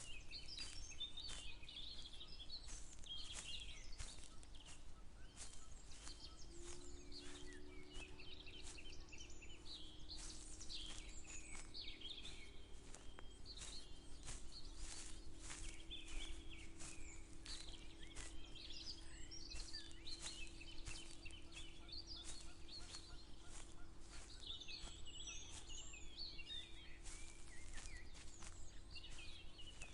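Several birds chirping and singing, with steady walking footsteps about one to two a second. A low, steady drone joins about six seconds in.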